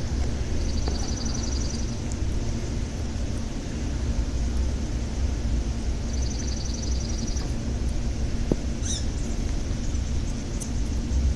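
A small bird's high, rapid trill, about a second long, repeated every five seconds or so, with a single short chirp about 9 seconds in, over a steady low rumble.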